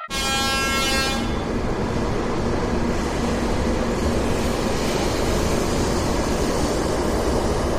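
Steady rushing rumble of a Shinkansen train running. A pitched tone with several overtones fades out about a second in.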